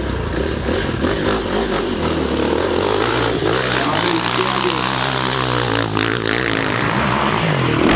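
Dirt bike engine running hard at high revs, its pitch rising and falling in the second half as the throttle is worked.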